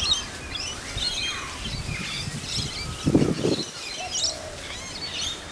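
Wild birds chirping and calling, many short calls scattered through, with a brief low sound about three seconds in.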